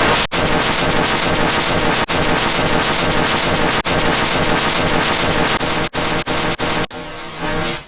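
A cartoon character's scream (Wubbzy), pushed through heavy distortion into harsh, static-like noise. It breaks off briefly every second or two, more often near the end, and drops quieter just before the end.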